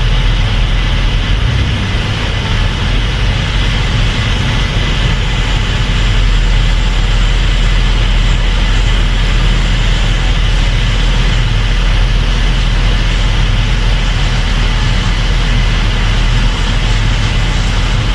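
Case IH Axial-Flow 8250 combine running steadily, a loud even machine drone strongest in the low end, with no breaks or sudden changes.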